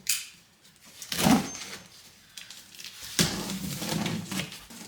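Handling noises with no clear pitch: a sharp knock, a louder scrape about a second in, then another knock followed by over a second of rattling and scraping, as a large delivery box is handled.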